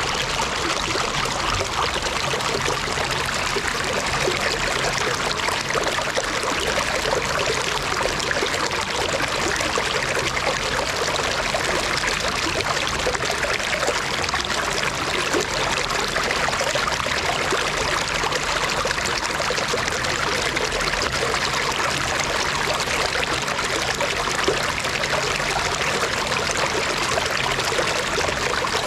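Running stream water rushing steadily, a constant even noise with no breaks.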